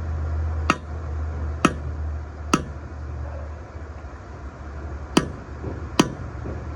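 Hammer tapping a bearing race into a truck's rear wheel hub: five sharp metallic taps about a second apart, with a longer pause in the middle, over a steady low hum. The race sits a little crooked and is being tapped on its high side to straighten it.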